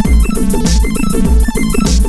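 Analog modular synthesizer playing a sequenced electronic pattern of quick pitched notes over a steady low kick-like thump about every 0.6 s, with a hissy noise hit on every second beat.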